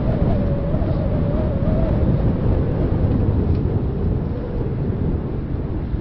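Wind buffeting the microphone of a handheld camcorder on a moving bicycle: a steady, loud low rumble with a faint wavering whistle that fades out about two seconds in.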